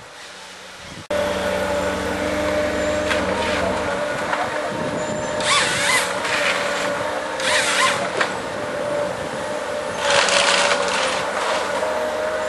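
Tree-felling harvester working: its engine comes in abruptly about a second in and runs steadily with a constant whine, with three short, louder rushes of noise over it around the middle and later on.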